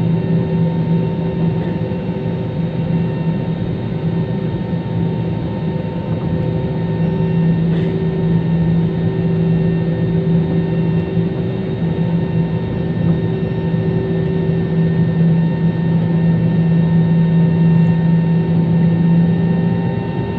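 Airliner cabin noise in flight: a steady drone of engines and airflow with a constant low hum.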